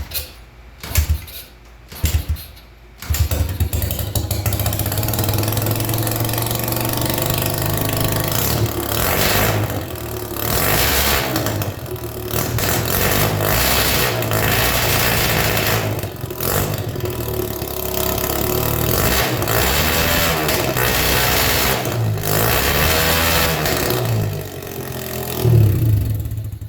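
Chinese 150cc dirt bike's single-cylinder four-stroke engine starting: a few short bursts, then it catches about three seconds in and runs, the throttle opened and closed so the revs rise and fall. It cuts off suddenly at the end.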